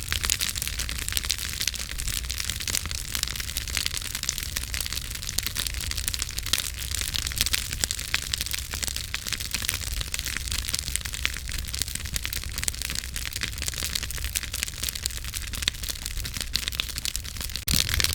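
Campfire crackling and popping: dense, irregular sharp snaps over a steady low rumble. The sound dips for a moment near the end and comes back with a few louder pops.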